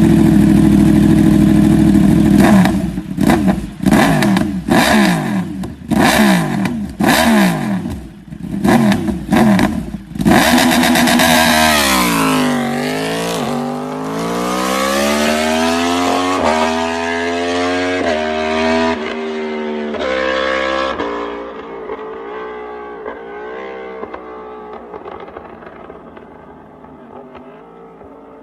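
Superbike exhaust: the engine is revved hard about eight times in quick blips, then it pulls away, its note dipping and then climbing steadily through the revs as the bike accelerates, fading into the distance near the end.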